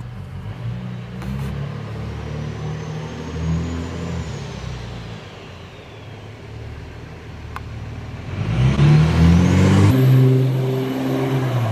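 Ram 2500's Cummins turbo-diesel engine running under way, with the turbocharger's high whistle rising and then falling early on. About eight seconds in the engine pulls harder: its note climbs, it grows louder, and the turbo whistle rises to a high, steady pitch.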